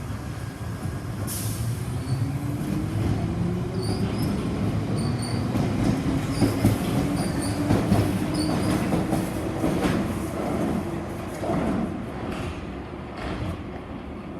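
London Underground Piccadilly line train pulling away from the platform. The motor whine rises slowly in pitch as it gathers speed, over the rumble of the wheels, with short high wheel squeals and clicks. It is loudest about halfway through, then fades as the train leaves.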